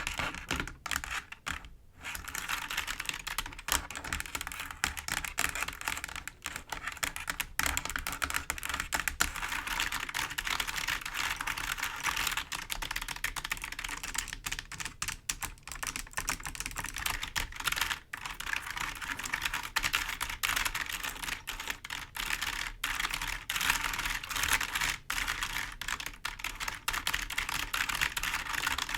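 Fingers tapping and scratching on a clicky computer keyboard: dense, rapid clicks with a brief pause about two seconds in.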